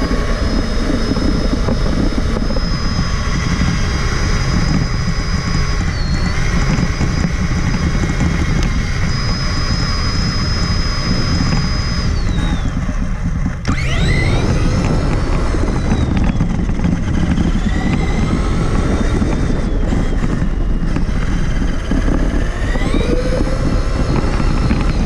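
Electric motor and gears of a Traxxas Summit RC truck whining at speed, heard from onboard over a heavy rumble of the chassis and tyres. The whine holds steady, sags briefly about 6 s in, falls away around 12 s, then climbs sharply at about 14 s and again near 23 s as the throttle is opened.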